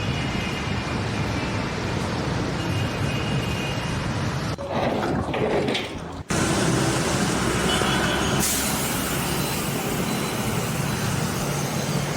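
Steady rumbling vehicle or machinery engine noise. It changes abruptly twice, about four and a half and six seconds in.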